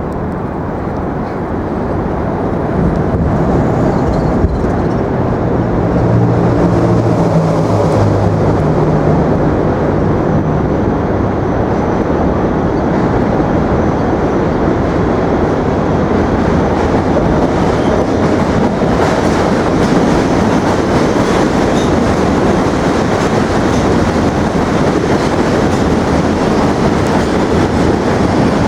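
A train running along the rails: a steady rumbling that builds over the first few seconds and then holds, with low humming tones for a few seconds early on.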